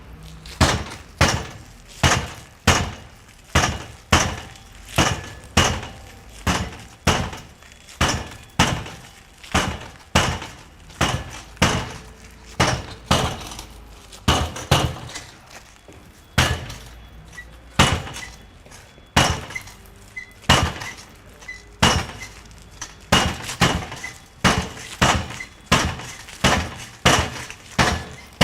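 Sledgehammer blows on a Silatec P6B burglar-resistant glass pane, struck over and over at roughly one and a half blows a second, each a sharp crack of glass with a short ring, with a couple of brief pauses.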